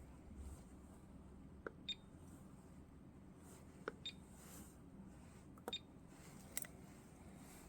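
Short, high electronic beeps from a small beeper, three of them about two seconds apart, each just after a click. One more click comes near the end.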